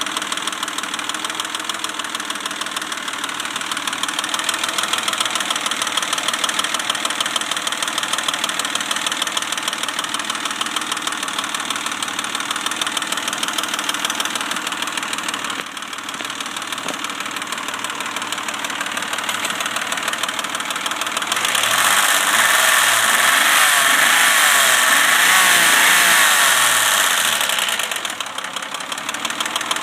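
Rebuilt 1995 Mitsubishi Pajero 3.5-litre DOHC V6 running with a fast, steady clicking from the engine. The owner calls it a weird clicking noise of unknown cause. About two-thirds of the way through the engine is revved for several seconds, then drops back to idle.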